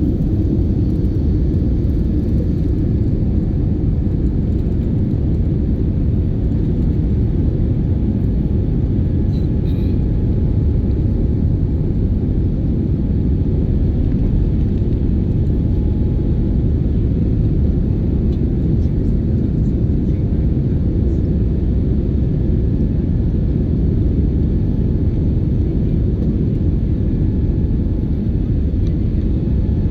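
Jet airliner noise: a steady low rumble of engines and airflow, holding at an even level.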